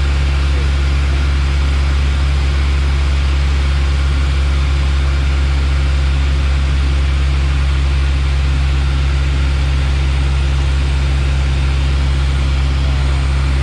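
Steady cockpit drone of a Piper Warrior's four-cylinder Lycoming engine and propeller, a strong low hum under an even hiss, unchanging throughout.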